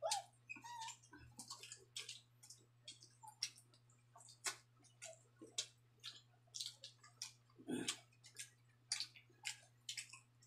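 Faint mouth sounds of eating by hand: irregular wet smacks and clicks of chewing rice and pork offal, a few each second.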